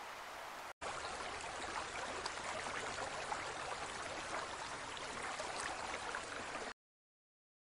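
Aquarium water bubbling and splashing steadily, a fine crackling hiss, which cuts off abruptly near the end.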